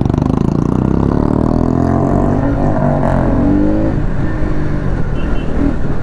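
Bajaj Pulsar NS200's stock single-cylinder engine pulling under acceleration, its note climbing in pitch over the first few seconds, with a steady low rumble of riding beneath it.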